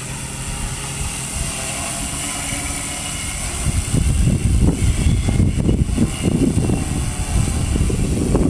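Quadcopter's four brushless motors and 17x5 wooden propellers humming in flight, the whine shifting in pitch as it holds against the wind. Wind buffets the microphone, growing louder about halfway through.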